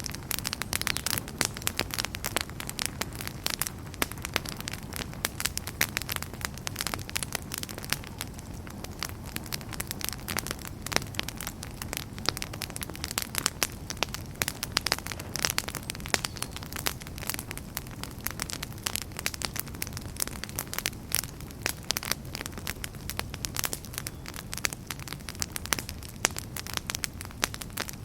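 Fireplace fire crackling, with dense, irregular sharp pops and snaps over a steady low rumble.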